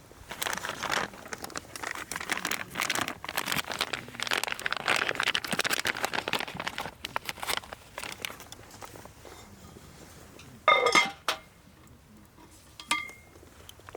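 Irregular crackling and rustling with many small clicks for about eight seconds, then a loud ringing clink about eleven seconds in and a smaller clink near the end, like cookware or a cup being set down.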